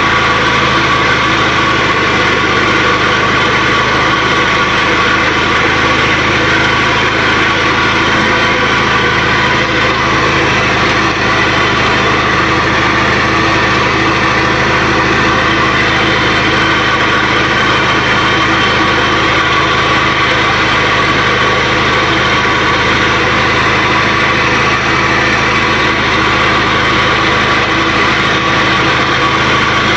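20 hp Onan twin-cylinder engine of a 1984 Craftsman III lawn tractor running steadily, still warming up after its first cold start of the year.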